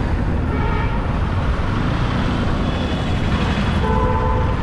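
Wind rush and road noise on a riding motorcyclist's microphone amid town traffic, with short pitched tones sounding over it a few times.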